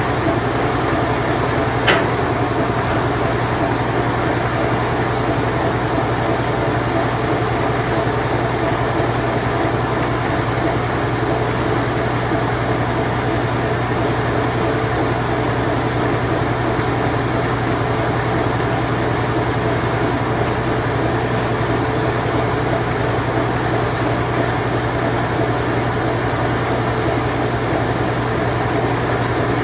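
Late-1980s Whirlpool Imperial Clean Touch washing machine running its spin cycle: a steady mechanical hum with a low drone, and a single sharp click about two seconds in.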